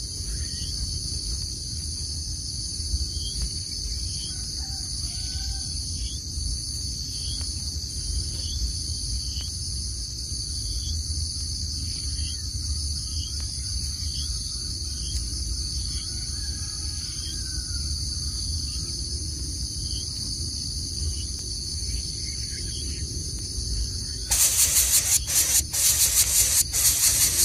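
Steady, pulsing high-pitched insect chorus over a low rumble, with faint short chirps about once a second. Near the end a much louder, harsh rasping buzz starts suddenly, with a rapid pulse.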